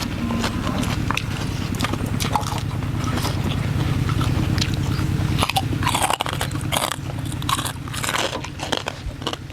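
Close-up crunching and chewing of crisp food, many sharp crackly bites in quick succession. A low steady hum underneath stops about halfway through.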